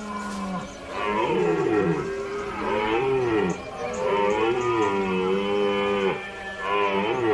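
Deer bellowing: a series of long, wavering calls with brief breaks between them.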